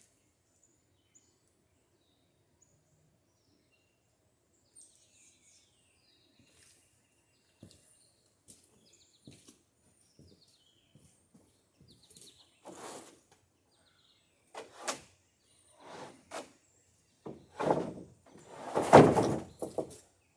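Boards being shifted and slid out of a wood pile: a run of wooden knocks and scrapes in the second half, growing louder, the loudest near the end. Faint bird chirps in the first half.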